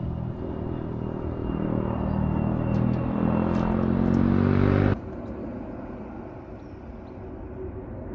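Aircraft passing overhead: a droning engine hum that grows louder, then cuts off suddenly about five seconds in, leaving quieter outdoor ambience.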